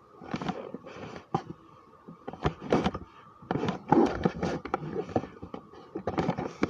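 Irregular knocks, clacks and scrapes of small objects being handled and moved about, which fits toy figures being picked up and set down.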